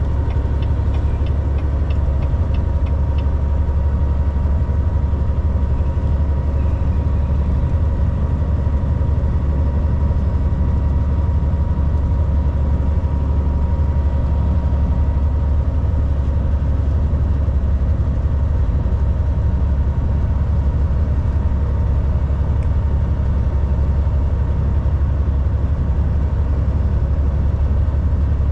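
Volvo VNL 760 semi truck's diesel engine running steadily: a deep, even drone with a faint steady whine above it. A few faint ticks come in the first few seconds.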